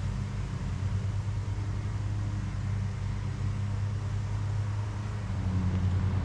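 A steady low mechanical hum over a constant hiss.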